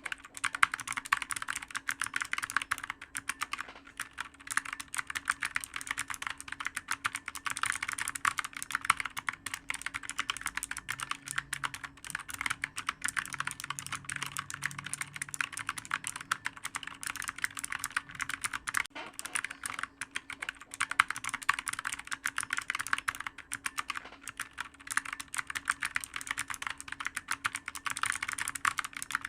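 Continuous fast typing on a clicky computer keyboard, many sharp keystrokes a second without a pause.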